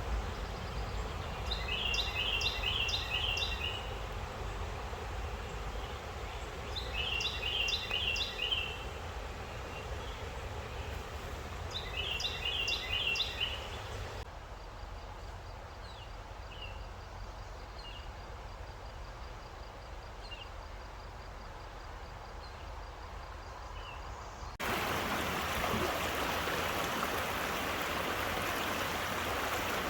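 River water running steadily, with a songbird repeating a short, rapid song phrase three times, about five seconds apart. After a cut the sound drops to a quieter stream with faint chirps, then cuts again to louder rushing water for the last five seconds.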